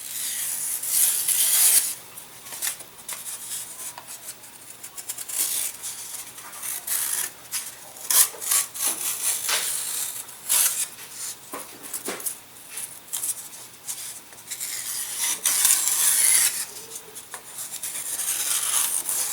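Uneven scraping and rubbing strokes of a hand tool shaping a model aircraft's wing, with scattered light clicks and knocks.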